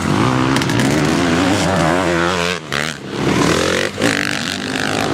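Motocross bike engine revving up and down as the throttle opens and closes, with short drops in revs about two and a half seconds in and again near four seconds.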